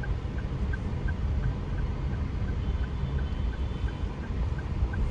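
Engine and road rumble heard inside a moving car's cabin, with a faint, steady tick about three times a second.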